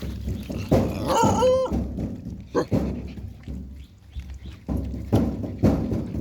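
Puppies eating from a shared dish, with irregular chewing, crunching and knocks against the bowl. About a second in, one puppy gives a short whine.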